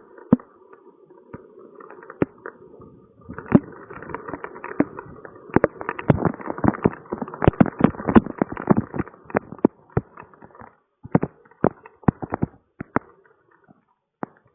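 Rain falling, with individual drops tapping irregularly on a hard surface over a steady patter. It grows heavier about three seconds in and thins out to scattered drops in the last few seconds.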